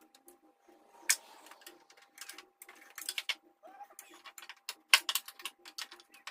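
Irregular metallic clicks and knocks of hand tools and bolts being worked as engine motor mount bolts are started, with the sharpest knocks about a second in and about five seconds in.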